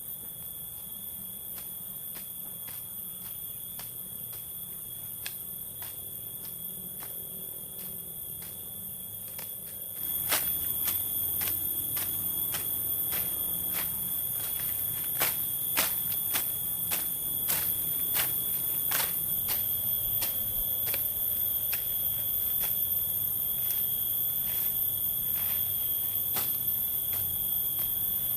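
Insects calling steadily in a forest, a high continuous drone with regular clicks about twice a second; it grows louder about ten seconds in.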